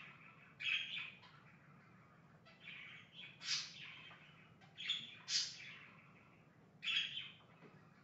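Pet birds chirping in short bursts, about five times, with brief pauses between them.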